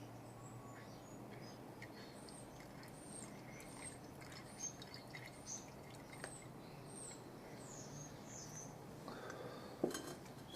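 Faint birds chirping in the background, many short high calls, with a single sharp click or knock near the end.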